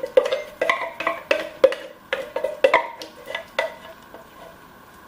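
Metal spoon knocking and scraping against a metal pot and can while chili is added and stirred: a series of sharp, ringing knocks about twice a second that stops about three and a half seconds in.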